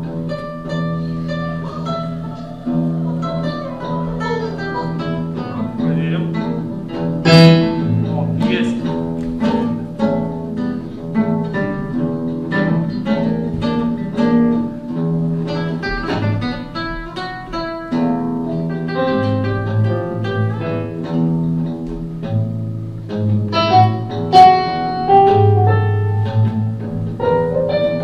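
Live music on plucked strings, a guitar to the fore, with a steady low note held underneath and sharp plucked notes and chords above it.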